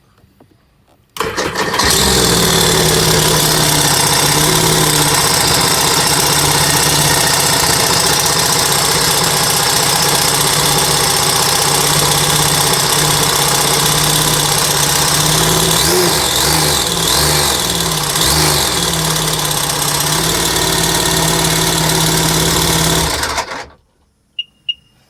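2008 Sea-Doo RXT 215's supercharged three-cylinder 4-TEC engine starting about a second in, then idling steadily, with a few quick throttle blips near the two-thirds mark before it shuts off abruptly near the end. The owner records it for an engine noise that they consider a fault.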